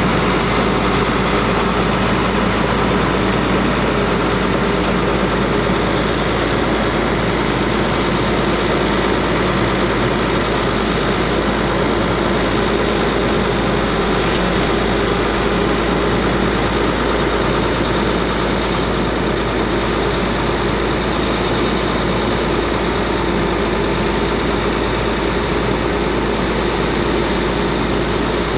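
Caterpillar C7 diesel engine of a Ford F750 truck running steadily at idle, with a few faint light clicks.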